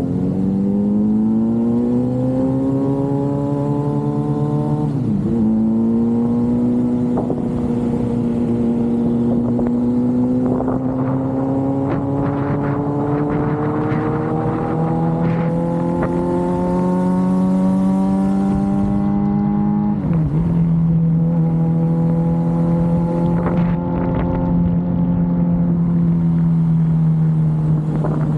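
Suzuki GSX-R750's inline-four engine under way, its pitch climbing slowly as it pulls through the gears. It dips briefly twice, about five seconds in and again about twenty seconds in, as it shifts up, then holds a steady cruise.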